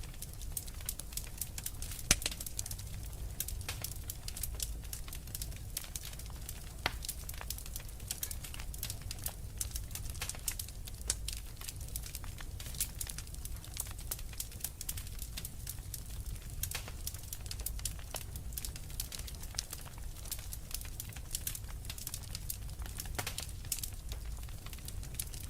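Wood fire crackling steadily, with dense small pops and snaps over a low rumble of the flames, and one louder pop about two seconds in.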